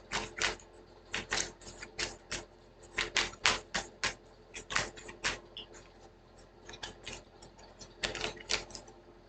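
Cards being shuffled by hand: irregular crisp clicks and slaps, a few a second with short pauses.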